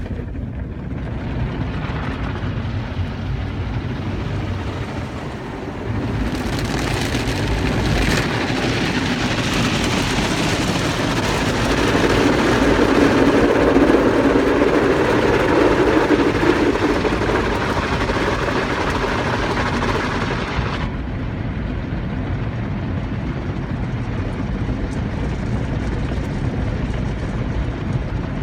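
Car wash machinery running with a steady low rumble. About six seconds in, a loud hiss of water spray joins it, grows heavier in the middle, and cuts off suddenly about twenty seconds in, leaving the rumble.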